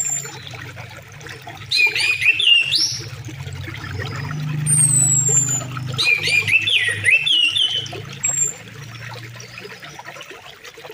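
River water flowing steadily, with songbirds singing over it: two bursts of warbling song, and a few thin, high, falling whistles.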